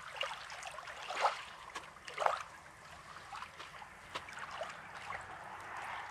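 Small sea waves lapping and trickling at a rocky shore, with a scatter of small clicks and two louder splashy bursts about a second apart.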